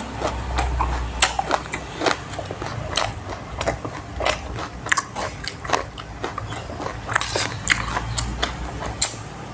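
Close-up eating sounds: a person chewing and biting into mouthfuls of moo nam tok and rice, with many irregular crunchy clicks and smacks.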